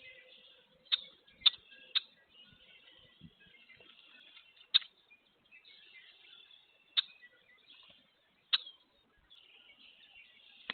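Woodpecker pecking at a feeder: six sharp, irregularly spaced taps, several a second or more apart.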